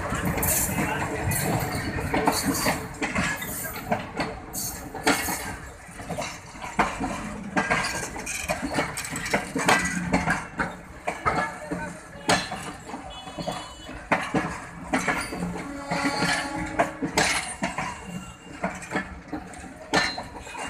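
Bangladesh Railway passenger coaches rolling past close by, their wheels and running gear clanking and clicking irregularly over the track with sharp metallic clinks over a low rumble.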